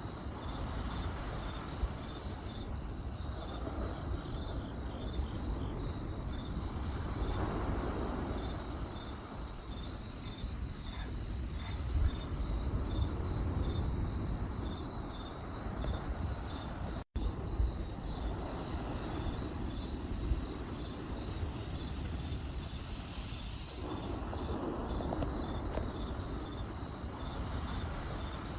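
Crickets chirping steadily in a fast even rhythm over a campfire's low rumble, with a few sharp crackling pops from the burning wood. The sound cuts out for an instant partway through.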